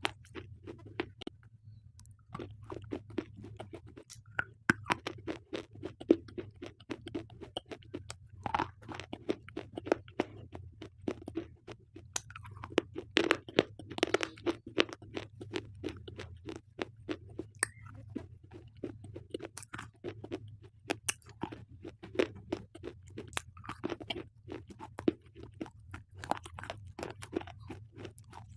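Slate pencils being bitten and chewed, a steady run of sharp crunches and gritty crackles with brief pauses between bites.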